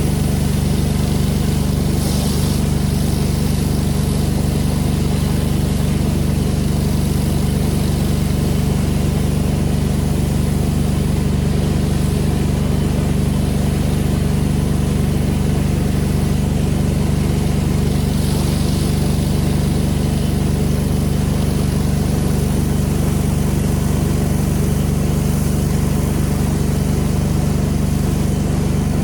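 Pressure washer's gas engine running at a steady speed, a constant loud drone with no change in pitch.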